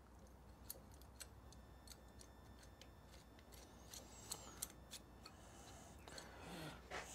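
Faint, scattered light clicks and ticks of small metal hardware and a hand tool being handled while nuts and washers are fitted to engine-mount studs, near silence between them.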